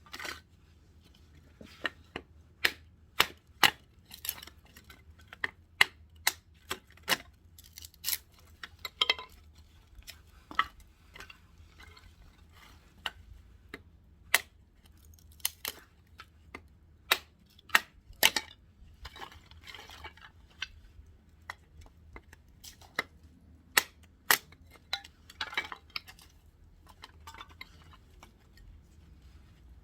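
Firewood being split into kindling for a wood stove: a long, irregular series of sharp chopping knocks, about one or two a second, with a few short rasping noises between some of the strikes.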